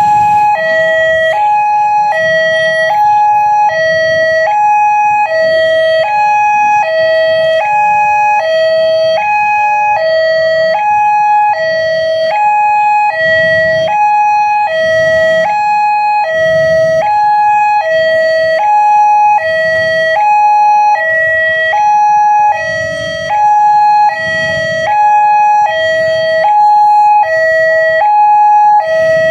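Indonesian railway level-crossing warning alarm sounding, an electronic two-tone signal that alternates between a lower and a higher pitch about every half-second. It is the sign that a train is approaching and the crossing barriers are closing or closed. A low rumble sits underneath.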